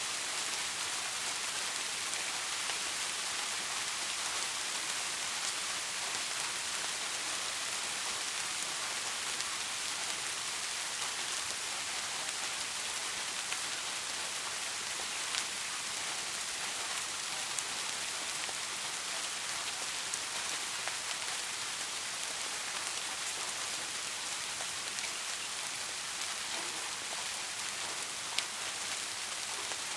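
Steady rain falling on hard surfaces, an even hiss with the odd distinct drop tick.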